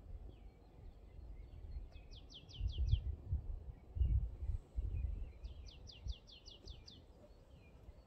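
Wild birdsong: a trill of about six quick, sharply falling notes about two seconds in and a longer trill of about nine near the sixth second, with fainter scattered chirps. Low wind rumble on the microphone comes in gusts and is the loudest sound.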